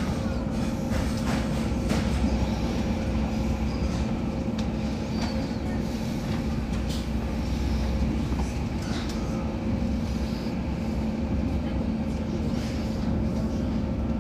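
Moving passenger train: a steady rumble of wheels on the rails with a constant low hum and a few faint clicks.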